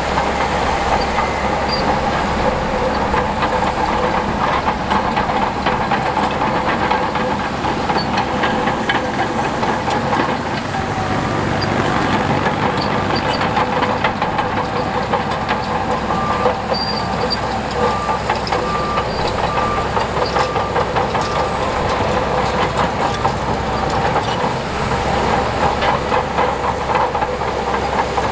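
Heavy crawler earthmoving machine running: a diesel engine at a steady pitch, with the rapid clanking of steel tracks. About midway a short run of evenly spaced beeps sounds over it.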